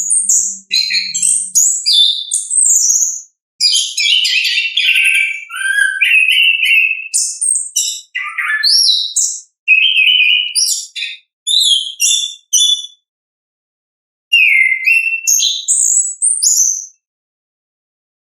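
Chestnut-capped thrush (anis kembang) singing a rapid, varied song of quick whistled notes, slurs and trills. The song comes in long runs, with a short pause a little past the middle and another near the end.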